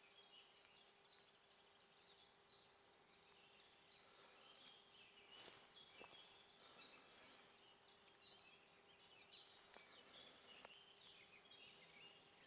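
Faint birdsong: many short, high chirps repeating throughout, with a few soft clicks around the middle and about two-thirds of the way in.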